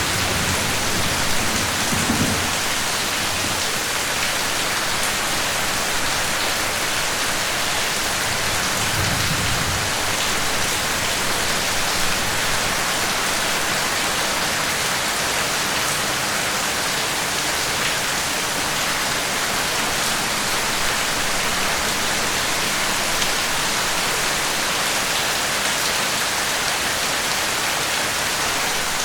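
Steady rain falling, an even hiss, with low rumbles of thunder at the start and again about nine seconds in.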